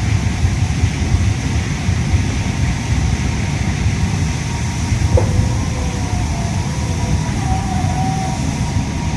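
Yui Rail monorail car running at speed, heard from inside the cabin as a steady low rumble with air-conditioning hiss. A faint, slightly wavering whine comes in about halfway through, just after a brief tick.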